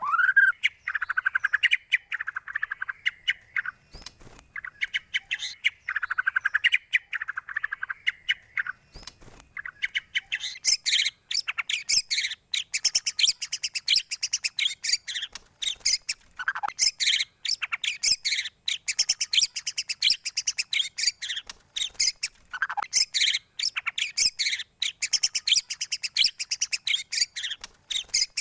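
Songbird song in dense, rapid runs of short chirping and trilled notes, with scarcely a pause. It is the kind of recording played to white-rumped shamas to make them sing. About ten seconds in, the song shifts to higher, brighter, busier notes.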